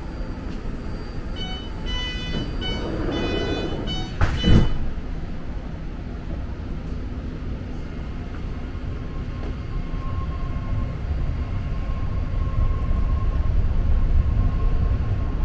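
BART train running with a steady low rumble. A run of short high-pitched tones comes early, then a single loud clunk about four and a half seconds in. The rumble then swells, with a faint steady whine, as the train gathers speed.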